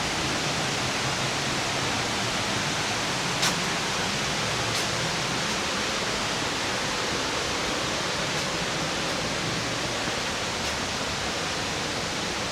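Waterfall: a steady, even rush of cascading water, with a small sharp tick about three and a half seconds in.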